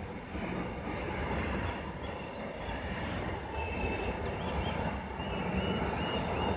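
Container freight train wagons rolling past, a steady rumble of steel wheels on the rails. Faint, brief wheel squeals come in the second half.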